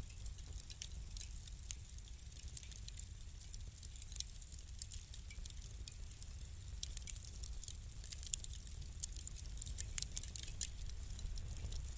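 Wood fire crackling: frequent small, sharp pops over a low steady rumble, with a few louder pops in the second half.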